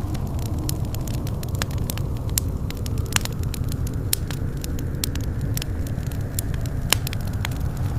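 Wood fire crackling and popping in a fireplace: frequent irregular sharp snaps over a steady low rumble of the burning fire.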